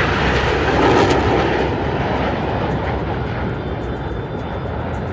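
Blue Angels F/A-18 Super Hornet jets passing in formation, a loud jet roar that peaks about a second in and then slowly fades.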